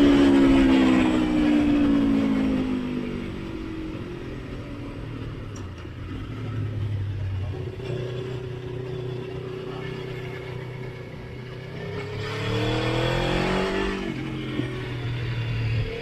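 Motorcycle engine on the road: revs falling as it slows over the first few seconds, then running steadily at lower revs, rising again under acceleration about twelve seconds in and dropping at a gear change near fourteen seconds.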